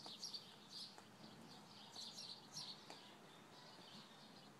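Faint, scattered bird chirps, short and high, over near silence.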